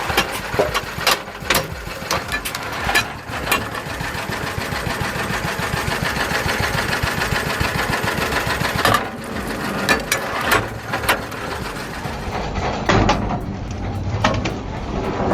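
Lister D small single-cylinder engine running fast and even on a homemade log splitter, with sharp knocks and clicks from the splitting mechanism and the wood. Near the end the sound changes, as if to a different machine.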